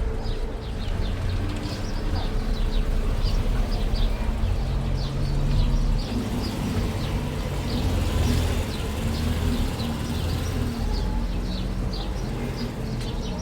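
Outdoor street ambience: a steady low rumble with many short, high chirps or ticks scattered through it.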